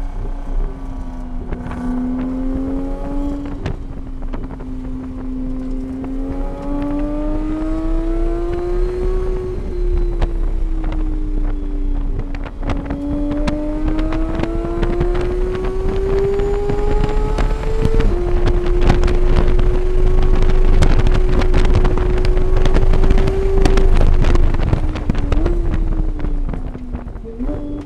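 Car engine under load on a race track, heard onboard: its pitch climbs slowly, drops back and climbs again, then holds high and falls away near the end as the car slows, with wind noise throughout. It is loudest in the second half.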